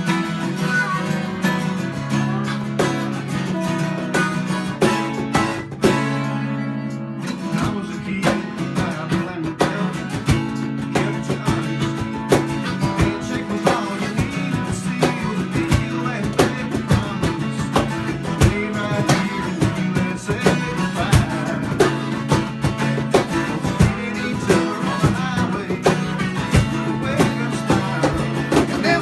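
Live Americana band playing the intro of a song: acoustic guitar strumming chords, with the rest of the band and a steady beat coming in about seven seconds in.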